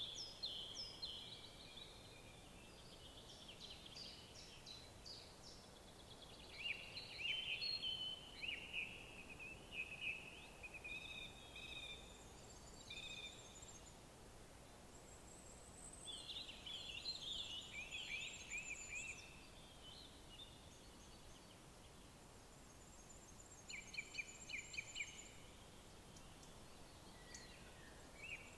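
Woodland songbirds singing: short warbling phrases every few seconds with quieter gaps between, and now and then a fainter, very high, thin trill.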